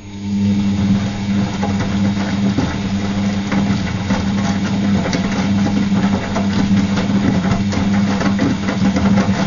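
Gala GL605T washing machine's motor turning the drum, starting suddenly: a steady low hum with dense irregular clattering and sloshing of the laundry tumbling inside.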